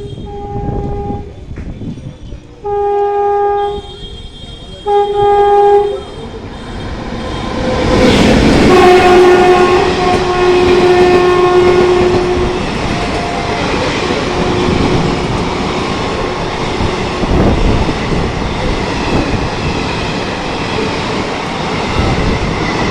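Indian Railways locomotive horn sounding three short blasts, then a through train rushing in and passing at speed with one long horn blast, followed by the steady rumble and clatter of coaches running through the station.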